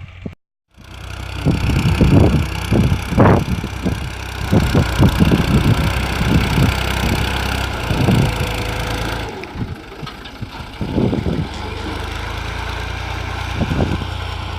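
Tractor engine running steadily, with many irregular bumps and rattles over the steady drone. The sound cuts out for a moment about half a second in.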